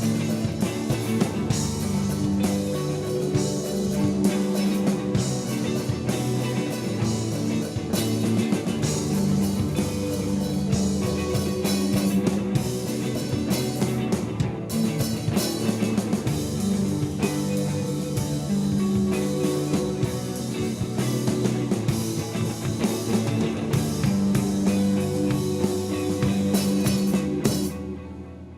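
A rock band playing with guitars, bass and drum kit in a spacey, psychedelic style. Near the end the band stops together and a last chord rings out briefly.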